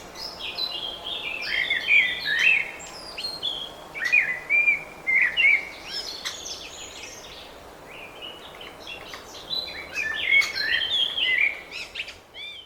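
Small birds chirping and twittering in quick, varied calls, coming in clusters with short lulls between them, over a faint steady background hiss.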